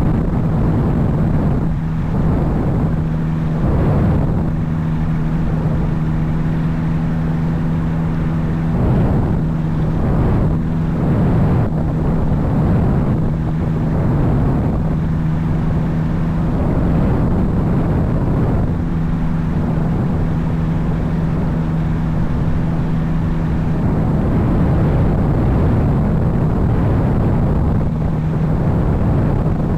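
Small helicopter's engine and rotor running steadily at an even pitch, with a gusty low rumble that now and then masks the engine note.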